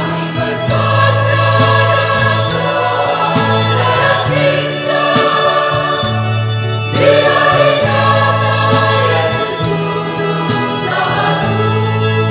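Church choir singing a hymn in several voice parts, in long held phrases; one phrase ends and the next begins about seven seconds in.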